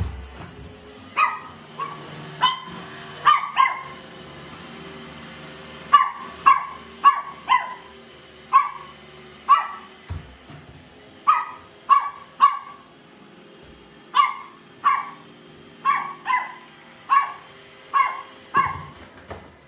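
Small dog, a Chihuahua, barking repeatedly in short, high, sharp barks that come in quick runs of two to four, about twenty in all. A faint steady hum runs underneath.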